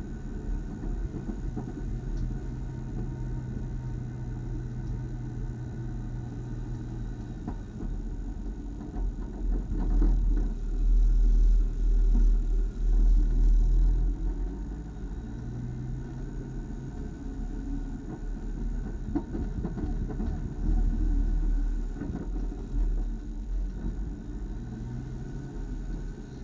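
Race car engine running at low speed under light throttle, heard from inside the car, with a steady low rumble. It gets louder for a few seconds around the middle, then settles back.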